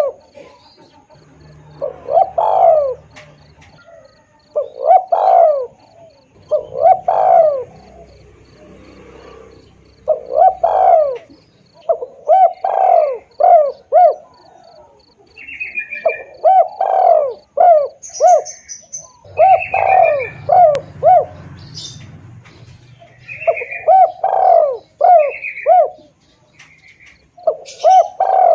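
Spotted dove (tekukur) cooing, its song phrase repeated about nine times: each phrase is a swelling coo followed by three or four short clipped notes. Small birds chirp higher up between the phrases, over a faint steady high-pitched insect pulsing.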